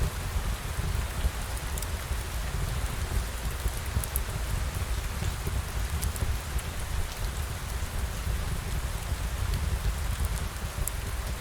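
Steady rain falling, an even hiss over a low rumble, with faint scattered ticks of drops.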